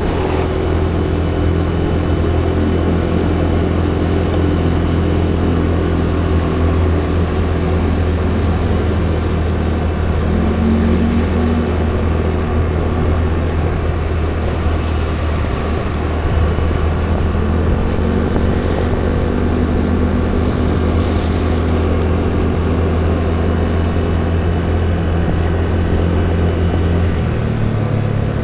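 A motor vehicle running steadily on the move, a low even hum with a higher tone that slowly rises and falls a couple of times.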